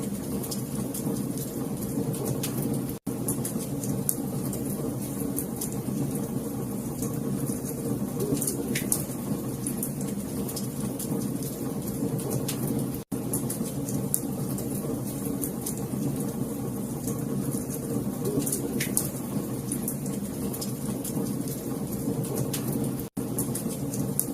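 Fireplace fire crackling: scattered sharp pops and ticks over a steady low rumbling hiss. It cuts out for an instant three times, about ten seconds apart, as a looped recording does.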